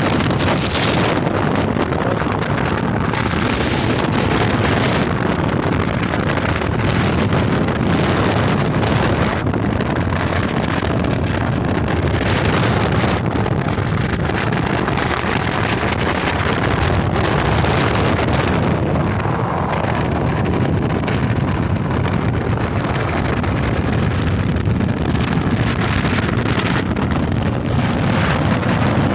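Loud, steady wind rush buffeting the microphone on a moving motorcycle, with the bike's running and road noise mixed underneath.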